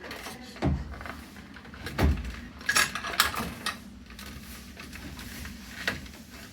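Scattered knocks and clicks, about half a dozen, of hands working plastic wire connectors and parts on a washing machine's control board.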